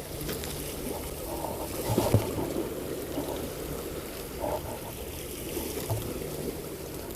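Water lapping and trickling against a fishing boat's hull, over a low steady hum, with a few soft knocks about two, four and a half, and six seconds in.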